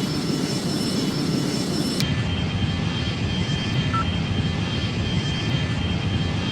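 Fixed-wing airplane's engines running steadily, a constant drone with a thin high whine above it. About two seconds in, the sound changes abruptly: the whine drops to a lower steady tone and the top treble vanishes.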